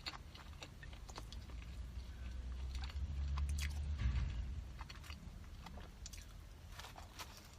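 Close-miked chewing and biting of a youtiao (fried dough stick), with scattered crisp crunches. A louder low rumble from about three to four and a half seconds in.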